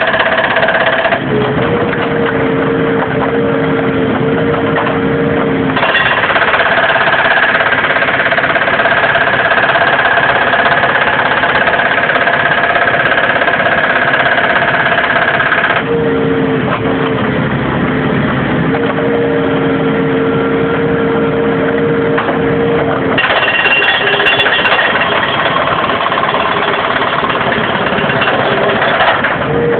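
Case 580M backhoe's diesel engine and hydraulic concrete breaker hammering at concrete. The sound comes in spells of several seconds, and the engine note shifts between a higher and a lower pitch from one spell to the next.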